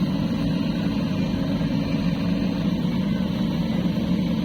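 Heavy diesel engine running steadily, an even low drone.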